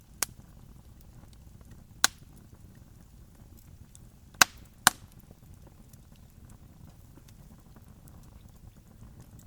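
Campfire crackling: four sharp wood pops, one about a quarter second in, one at two seconds and a close pair near four and a half seconds, with faint small crackles over a low steady rumble.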